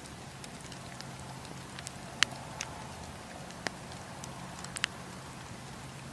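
Wood campfire crackling: scattered sharp pops and snaps of burning wood, the loudest a little over two seconds in, over a steady low rumble of the flames.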